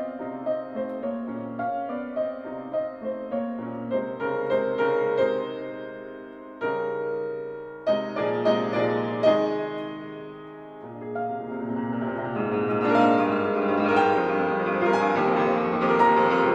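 Background piano music: notes and chords played at a moderate pace, growing fuller and louder in the last few seconds.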